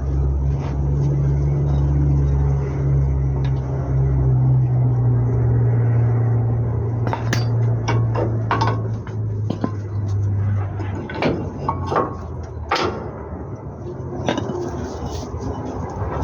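A vehicle engine running steadily, dropping in pitch and stopping about two-thirds of the way through, while metal tools clink and knock several times.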